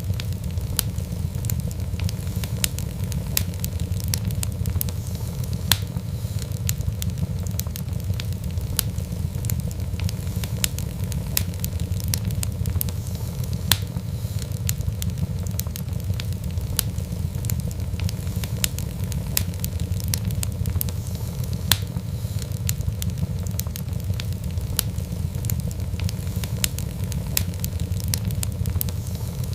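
Fireplace fire crackling: many irregular sharp snaps and pops over a steady low rumble of flames.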